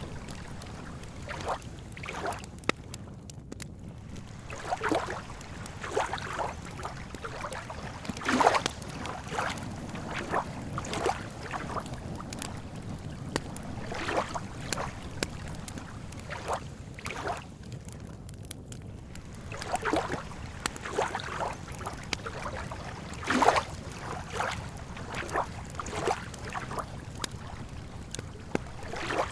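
Campfire crackling with irregular sharp pops, two louder ones about eight seconds in and near twenty-three seconds, over a steady low wash of lake water lapping.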